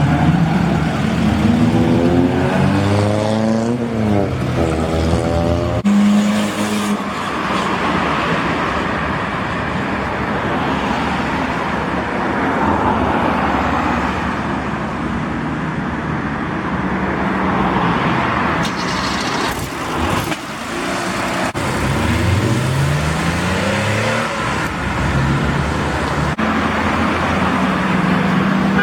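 Old cars' engines passing one after another, two of them rising in pitch as they accelerate away, over steady traffic and tyre noise.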